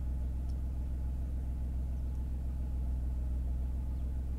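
Renault Clio 4's engine idling while the car stands still, heard from inside the cabin as a steady low hum.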